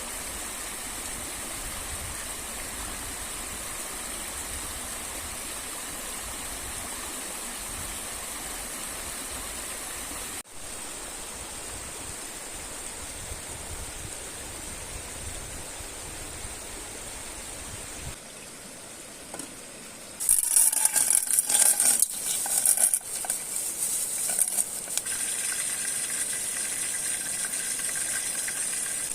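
River water rushing steadily for most of the first two-thirds. About twenty seconds in, a louder, irregular sizzling and crackling starts, like food cooking in a hot pan, and carries on to the end.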